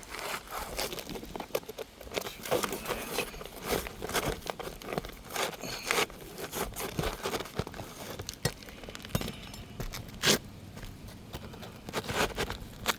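Asphalt roof shingles being worked by hand and with a pry bar: irregular scraping and crackling with sharp clicks as old, brittle shingles are lifted and a replacement is slid into place.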